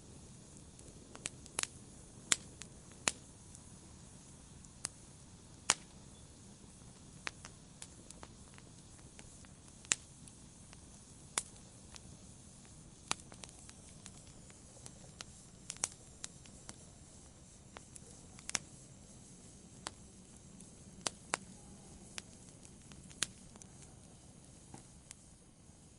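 Wood campfire burning: a low steady hiss and rumble of the flames with sharp, irregular crackles and pops from the burning wood, several a second at times and sparse at others.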